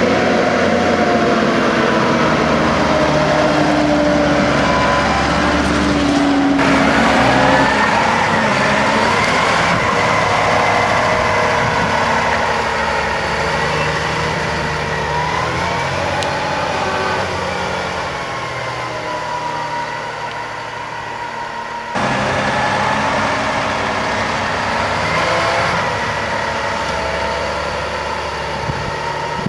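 John Deere 7230R tractor's six-cylinder diesel engine working hard under load as it pushes silage with a front blade, its pitch rising and falling with the revs. The sound jumps abruptly twice.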